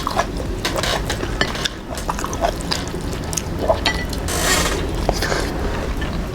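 Close-miked eating sounds: wet chewing and mouth clicks in an irregular run, with a short swish about four and a half seconds in.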